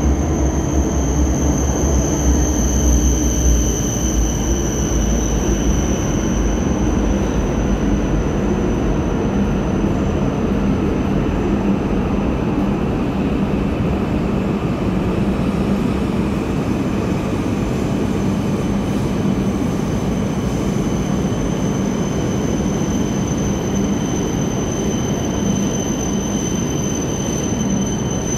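E2 series Shinkansen trainset alongside the platform, giving off a steady mechanical hum with a high-pitched whine over it. A deeper rumble is heard in the first few seconds and then eases.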